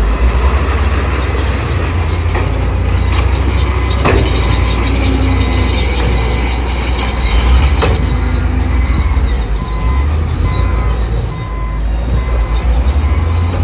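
A crawler bulldozer's heavy diesel engine runs under load with a deep steady rumble. Short metallic squeals and two sharp knocks, about 4 and 8 seconds in, are typical of steel tracks and the blade working rock.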